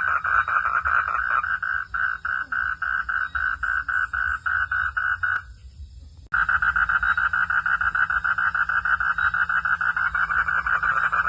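Frogs calling at night in a fast pulsing chorus over a low steady hum. The pulses slow to about five a second, cut off abruptly about five seconds in, and start again suddenly and densely about a second later.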